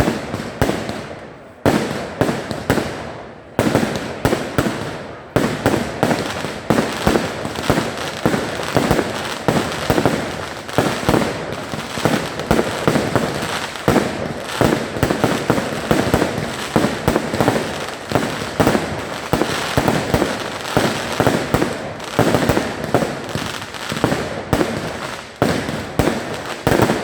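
Fireworks display: a dense, nearly unbroken barrage of bangs and crackling shell bursts, several a second, with two short lulls in the first few seconds.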